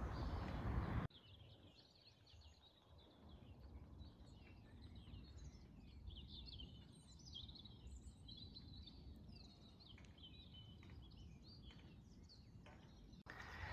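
Faint birdsong: many short chirps and twitters from several small birds, over a quiet background. During the first second a louder steady rushing noise is heard, and it cuts off suddenly.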